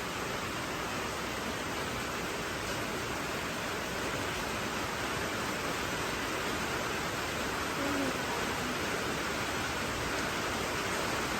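Steady hiss of heavy rain mixed with rushing runoff water, even and unbroken.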